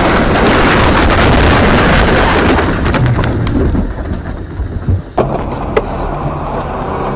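Car collision heard through a dashcam microphone: a loud wash of noise with scattered crunching clicks after the impact, fading over about four seconds. A sharp click follows just after five seconds, then steadier engine and road noise.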